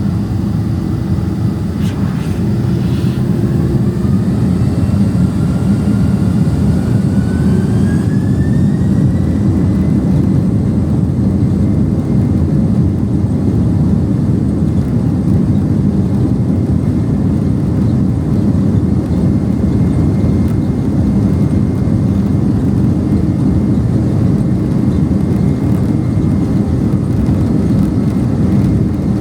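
Boeing 767-300ER's twin turbofan engines spooling up to takeoff thrust, heard from inside the cabin. A whine climbs in pitch over several seconds and levels off about ten seconds in, over a steady, loud, deep rumble.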